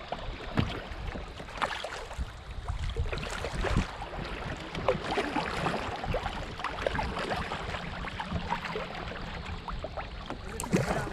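A kayak moving through very shallow river water: splashing and sloshing of water, with irregular small knocks and scrapes as the hull bumps the shallow bottom.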